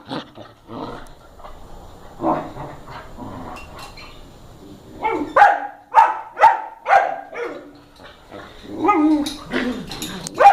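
Dog barking in a quick series of short barks, about two a second, a few seconds in, with more barking again near the end.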